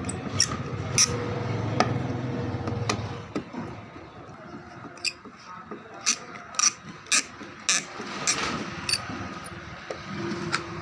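Irregular sharp taps and knocks, a dozen or so, from hand tools at work on a refrigerator's metal strip, with a low rumble under the first few seconds.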